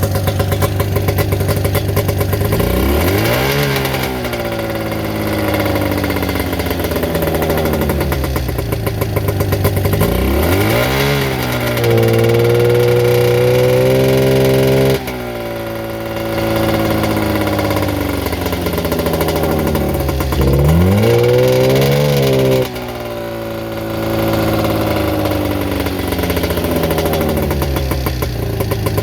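Arctic Cat 440 snowmobile's two-stroke twin engine idling and being blipped with the throttle: it revs up and drops back to idle about three times, and starts to rev again at the end.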